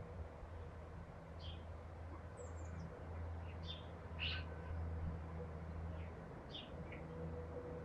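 Garden birds calling in short chirps every second or two, with a quick falling run of very high twittering notes about two and a half seconds in, over a steady low hum.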